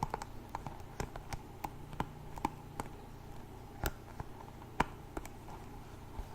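Light, irregular tapping and clicking of hands handling small objects, a few taps a second with uneven spacing.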